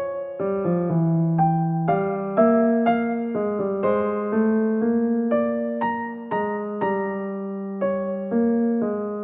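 Soft background piano music: a slow melody of single notes, each struck and left to fade.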